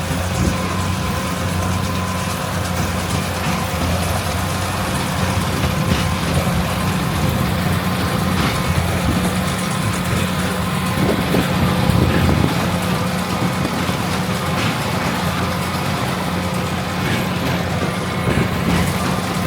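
Heavy farm machinery running steadily in a harvest field: a constant low engine drone with a few scattered knocks.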